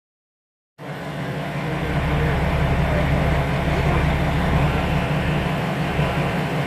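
A train running: a steady low drone with a hum under it. It starts abruptly out of silence about a second in and holds level.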